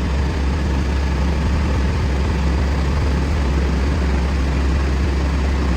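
Metal lathe running steadily under power, with a strong low hum under a constant noisy churn.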